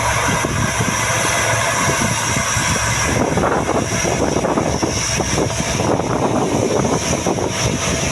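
C-130 Hercules four-engine turboprops running loud and steady, with a high whine, the sound turning rougher and more crackling about three seconds in.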